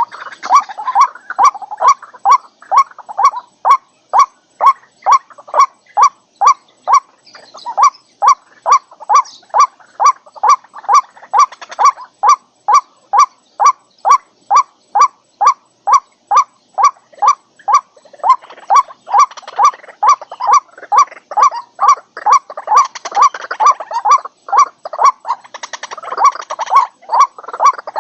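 White-breasted waterhen calling: a short kwak note repeated steadily about twice a second. Roughly two-thirds of the way through, a rougher layer of overlapping calls joins in for several seconds.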